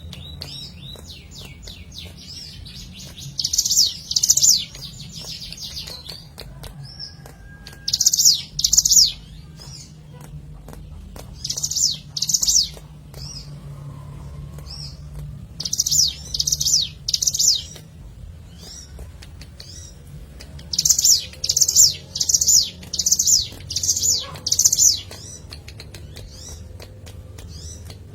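Ciblek gunung (a prinia) singing: short, high, rapid chirping phrases every few seconds, with a quicker run of phrases near the end, over a faint low hum.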